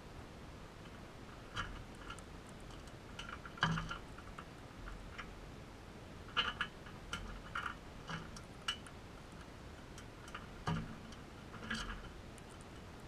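Crimson rosella making short, irregular clicks and cracks, a dozen or so spread unevenly, some in quick clusters.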